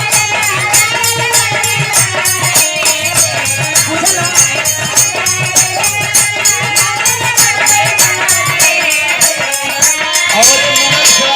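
Live Bhojpuri folk (Birha) band music: fast, steady percussion with jingling rattles and melodic accompaniment. The low bass drops away near the end.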